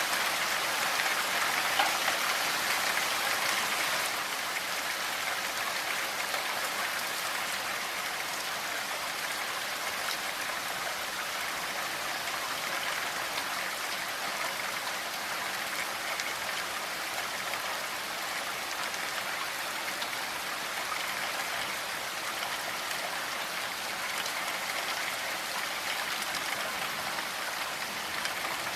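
Steady rain falling, a constant hiss of drops with no thunder. It is a little louder for the first few seconds.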